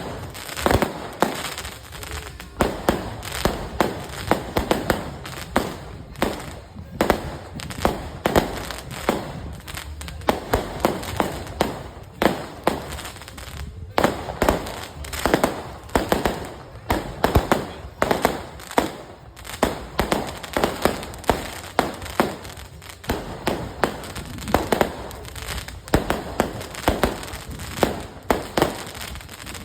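Fireworks banging in quick, irregular succession, several sharp reports a second with short echoing tails, continuing without a break.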